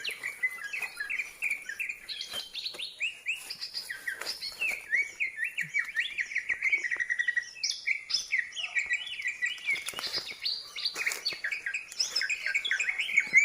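Small songbirds chirping rapidly and without pause, many short high calls overlapping, with faint scattered clicks.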